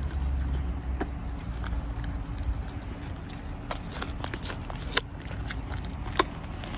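A buck crunching and chewing carrots: irregular crisp crunches, the sharpest about five seconds in and another a little after six.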